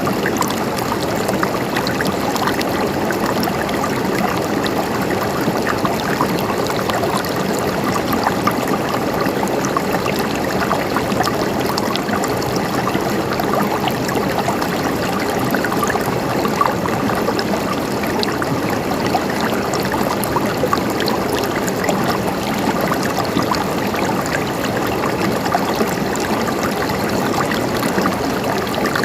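River water flowing steadily over stones, a constant rushing with fine splashing and trickling.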